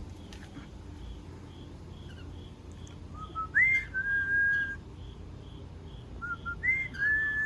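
Two clear whistled phrases. Each opens with one or two short low notes, sweeps up, then holds a long steady note for about a second. The first comes a little after three seconds in, and the second follows about three seconds later.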